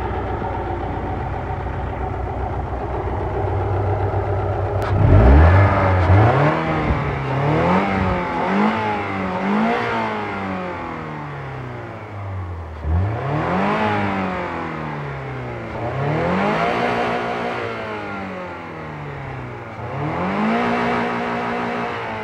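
Alfa Romeo 166's 2.0 Twin Spark inline-four idling steadily for about five seconds, then free-revved again and again: a few quick blips, then slower rises and falls of the revs, each dropping back toward idle.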